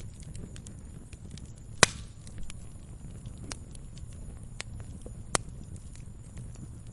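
Wood fire crackling in a fireplace: a low steady rumble of the flames with scattered sharp snaps, the loudest pop about two seconds in and another near five seconds in.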